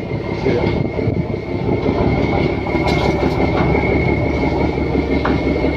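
Fishing boat's engine running steadily under load, a dense rumble with a steady high-pitched whine on top.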